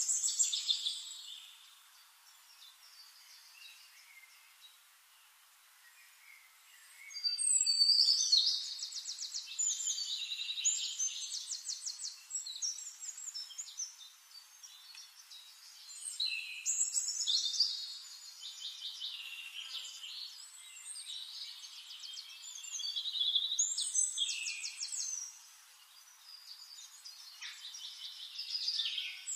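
Birds chirping and trilling in bursts of a few seconds, with a quieter stretch early on and fast high trills from about seven seconds in.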